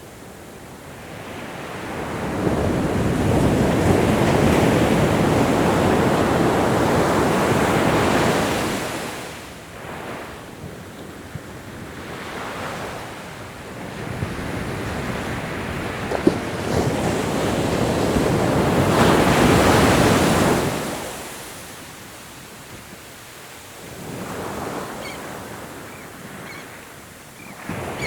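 Ocean waves breaking and washing up the shore in slow surges. One wave swells to its loudest for several seconds near the start, a smaller wash follows, another wave peaks about two-thirds of the way through, and quieter lulls come between them.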